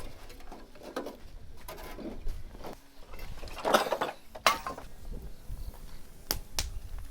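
Wood fire crackling, with irregular pops and snaps. Two louder pops come about four seconds in and a few sharp cracks near the end.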